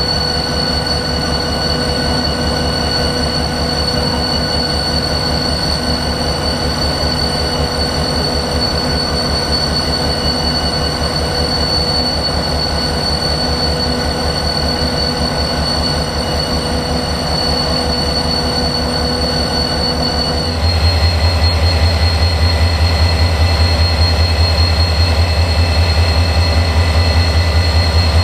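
Victorian Railways C class diesel-electric locomotive C501's EMD 16-cylinder two-stroke engine running with a steady whine over a pulsing throb. About twenty seconds in, the engine note steps up abruptly to a louder, deeper throb.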